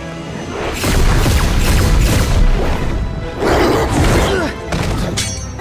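Dramatic film score with loud crashes and impacts: a big burst starting about a second in and another a little past the middle.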